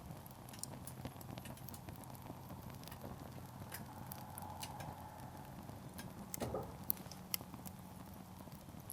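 Burning firewood crackling in a campfire: irregular sharp pops and snaps over a faint steady low hum, with a brief hiss about six and a half seconds in.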